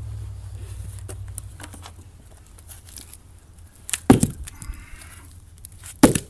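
A low hum fades out over the first couple of seconds. Then come two loud wooden knocks about two seconds apart, as sawn log pieces are handled.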